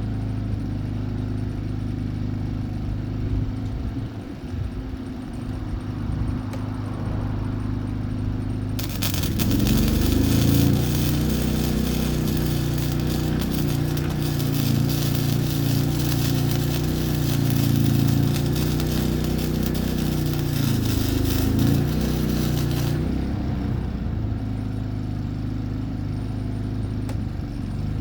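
Wire-feed welder at work: a steady low hum, then about nine seconds in the arc strikes and gives a dense, continuous crackle for about fourteen seconds before cutting off, back to the hum alone.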